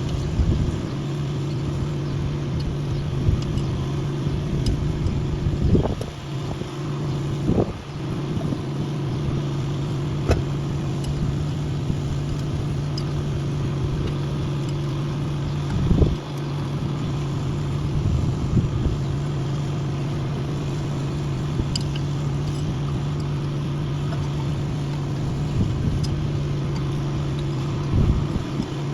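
An engine running steadily with a constant hum, with a few sharp knocks and clanks over it.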